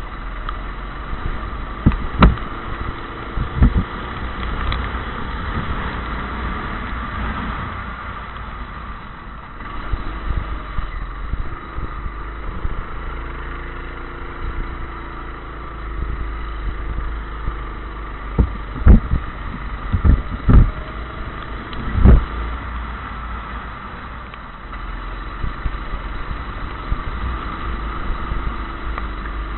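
Go-kart engine running, its pitch drifting up and down with throttle, over a steady low rumble. Several sharp knocks stand out, two early and a cluster of four near the end.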